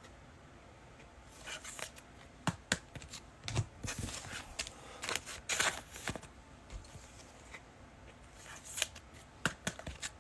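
Trading cards being handled and flipped through: scattered light clicks and rustles of card stock, starting about a second in.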